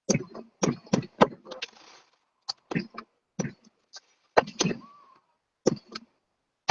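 Fireworks going off: an irregular run of about a dozen sharp bangs, one trailing into a crackling hiss.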